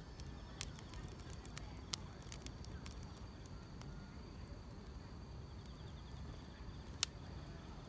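Wood fire crackling, with a few sharp pops, the loudest about seven seconds in, over a steady high trill of insects.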